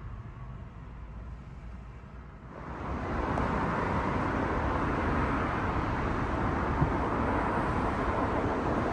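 Road vehicle noise: a low steady rumble that grows abruptly louder about two and a half seconds in and then holds steady.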